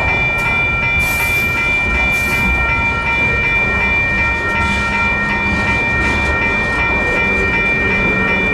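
Union Pacific train rolling over the crossing with a steady rumble and wheel clatter, while the crossing's WCH electronic bells ring without a break.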